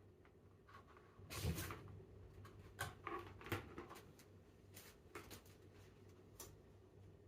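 A few soft knocks and clicks over a faint steady hum, the loudest a thump about one and a half seconds in.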